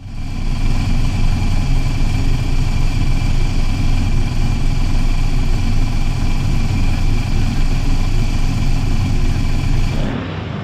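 A big engine idling loud and steady with a rough, fast beat. About ten seconds in it cuts to a quieter idle of the supercharged Holden Commodore burnout car.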